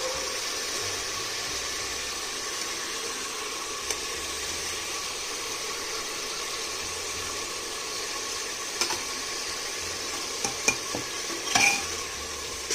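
Ginger-garlic-green chilli paste and onion sizzling steadily in hot oil in a pressure cooker. A steel ladle stirs and scrapes through it, clinking against the pot a few times, most toward the end.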